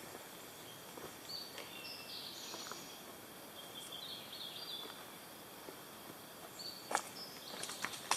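Outdoor forest ambience: steady high-pitched insect buzzing at a few pitches, starting and stopping over an even background hiss, with one sharp click about seven seconds in and a few small ticks after it.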